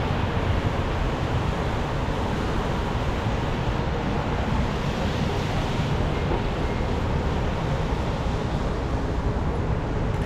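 Steady city traffic noise on rain-wet streets: a continuous hiss over a low rumble, with no distinct single events.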